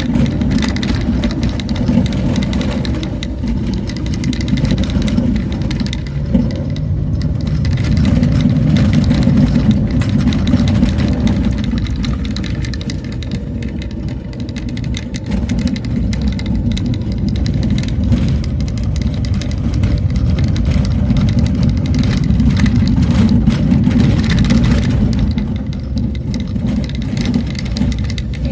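A motor vehicle's engine running continuously as it travels, with a low rumble that swells and eases a few times.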